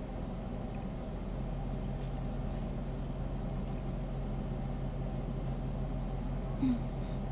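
A car engine idling steadily, a low hum heard from inside the stopped vehicle's cabin. A brief short blip sounds about six and a half seconds in.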